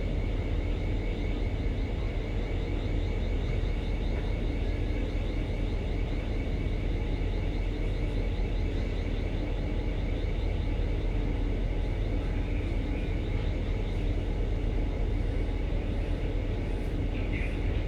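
Steady low machinery rumble of a ship during berthing, with a faint high whine above it and a brief chirp near the end.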